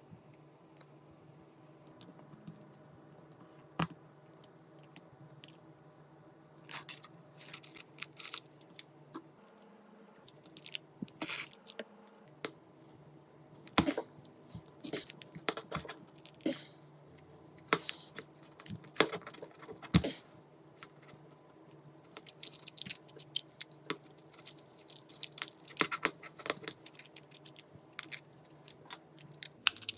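Small tools clicking, tapping and scraping against a phone's parts during a hands-on repair, in scattered irregular strokes that grow busier after the first several seconds, over a faint steady hum.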